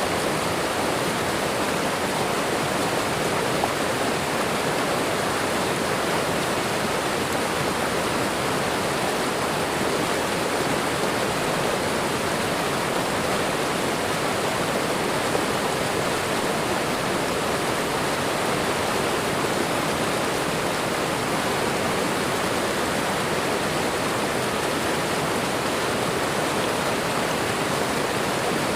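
Waterfall and running water: a steady, unbroken rush of falling water.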